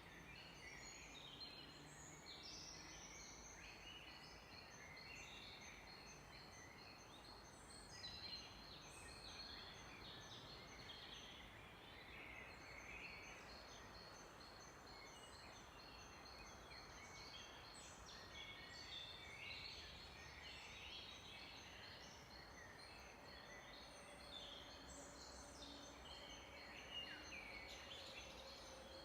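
Faint chorus of several songbirds singing and calling at once: overlapping high chirps and trilled runs of quickly repeated notes that go on without a break.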